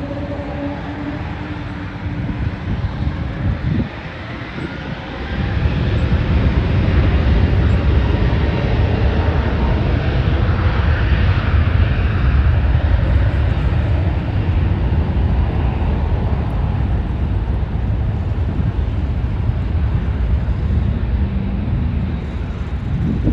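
Jet airliner's engines, a broad rushing noise with a deep rumble that swells sharply about five seconds in and stays loud.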